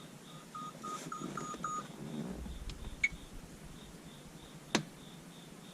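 A quick run of short, same-pitched electronic beeps, about four or five a second, stopping a little under two seconds in, followed by a faint click and a sharper click near the end.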